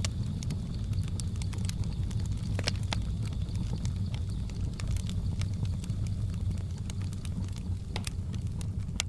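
Wood fire crackling: a steady low rumble of flames under many sharp, irregular pops and snaps, a few of them louder, about a third of the way in and near the end.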